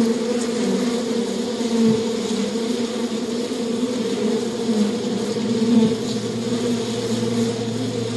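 Flying insects buzzing, a steady, wavering drone. A lower hum joins about six seconds in.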